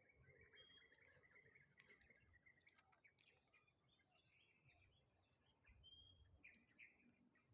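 Faint outdoor ambience with birds chirping and twittering, including two short clear whistled notes, one about half a second in and another about six seconds in.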